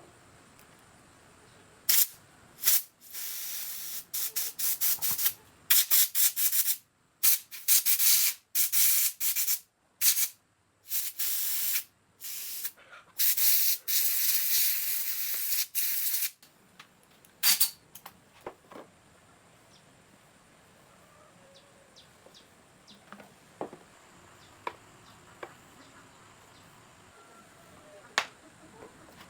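Hissing spray of compressed air in many short on-off bursts for about the first half, then only a few faint ticks.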